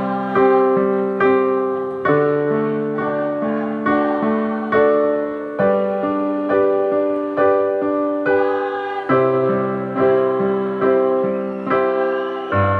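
Piano playing slow, sustained chords at a steady pace, a new chord struck a little less than once a second, with no singing.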